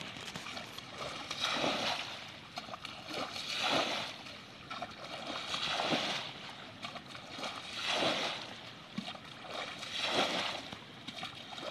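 Water splashing and sloshing in regular surges about every two seconds, as water is worked by hand.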